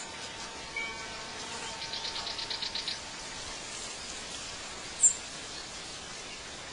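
Birds chirping outdoors: a few sharp, short high chirps and a quick rapid trill about two seconds in, over a steady background hiss.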